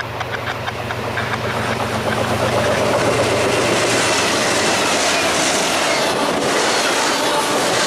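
Diesel-hauled freight train passing close by at speed: the approach builds to a loud, steady rumble of wheels on rail, with repeated clicking early on. A low engine drone from the locomotives stops a little past halfway as the autorack cars roll by.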